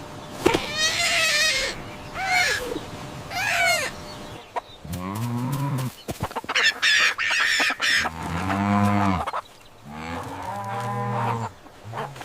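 Cartoon farm-animal calls: wavy high squawking calls in the first few seconds, then three long low mooing calls about a second each, with higher squawks among them.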